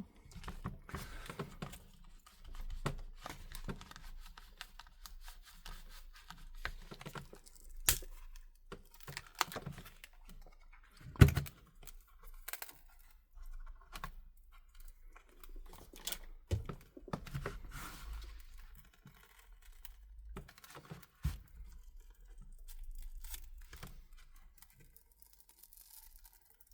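Cracked tablet front glass being pried and cut loose from its adhesive with a plastic tool: irregular scraping, tearing and crackling, with scattered sharp clicks, the loudest about eleven seconds in.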